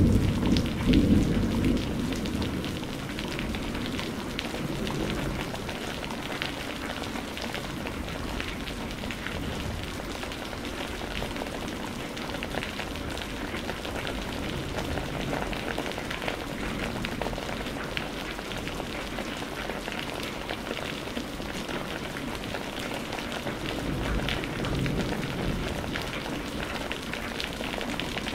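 Steady heavy rain, an even hiss full of fine drop ticks. In the first two seconds a low thunder rumble dies away under it.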